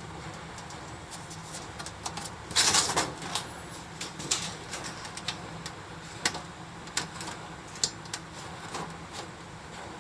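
Firewood crackling and popping in a compact fire pit: irregular sharp snaps over a steady low background, with a louder noisy burst about two and a half seconds in.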